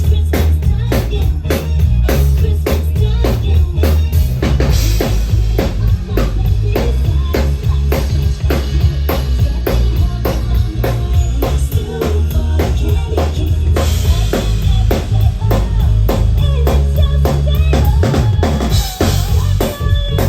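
Loud amplified band music driven by a drum kit beat, about three hits a second, over heavy bass.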